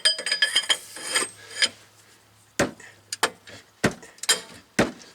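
Socket, breaker bar and cheater bar clicking and clinking against each other while working a thread-locked hub bearing bolt loose: a quick run of ringing metal clicks, then three sharp knocks about a second apart.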